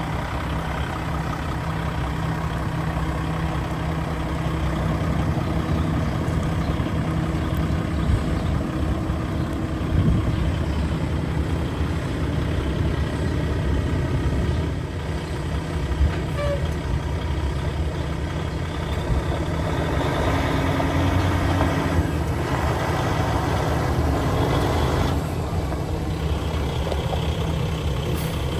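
Diesel engine of a 2013 Kenworth T660 heavy truck running steadily with a low, even hum.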